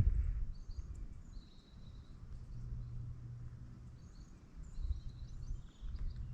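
Outdoor ambience: a low rumble with faint, high bird chirps here and there.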